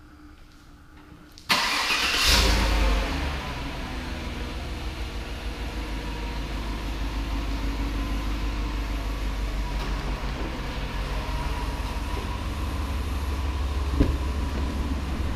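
The 2016 Chevrolet Suburban's 5.3-litre V8 starting: it cranks briefly about a second and a half in, flares up in a short rev, then settles into a steady idle. A sharp click near the end as the driver's door handle is pulled.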